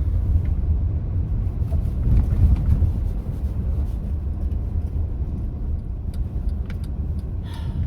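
Steady low rumble of a car's engine and tyres heard from inside the cabin while driving on snowy roads, with a few faint clicks near the end.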